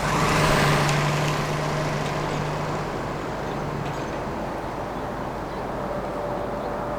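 Water truck's engine running, heard from inside the cab, as a steady low hum with broad noise over it; the noise is loudest in the first second and the hum drops away about four seconds in.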